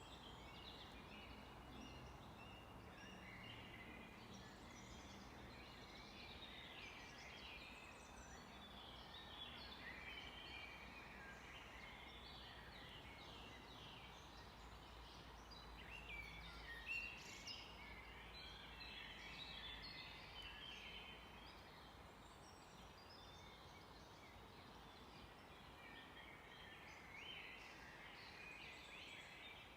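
Faint chorus of many small songbirds chirping and trilling over one another, over a steady low background hiss.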